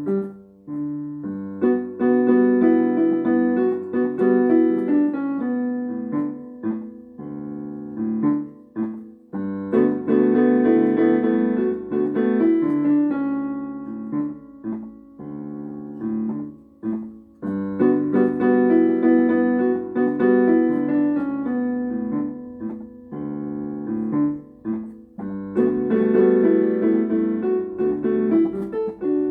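Solo piano playing an instrumental introduction: a phrase that starts over about every eight seconds, with no voice yet.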